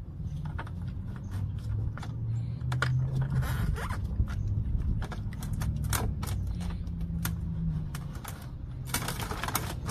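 A run of irregular scrapes and clicks, the densest scraping just before the end, over a low steady hum.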